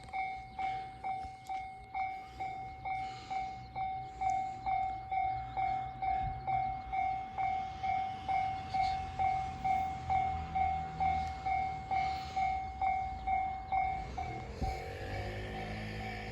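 Railway level-crossing warning bell ringing at a steady pace, a bit over two strikes a second. Near the end the bell stops and a train's running sound with a rising whine comes in.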